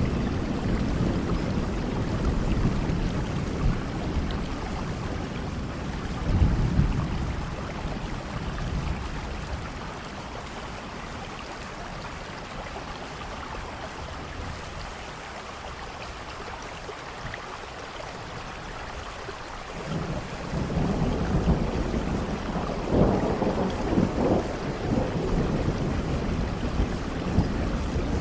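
Steady heavy rain with rolling thunder. A rumble of thunder comes about six seconds in and dies away, the rain alone continues more quietly for a stretch, and a long rolling thunderclap builds in about twenty seconds in and keeps rumbling.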